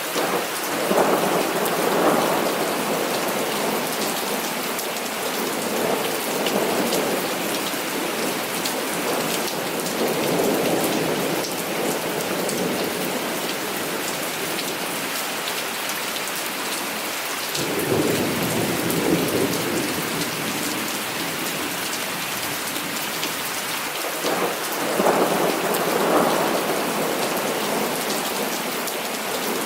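Heavy rain falling steadily, with several rolls of thunder that swell and fade.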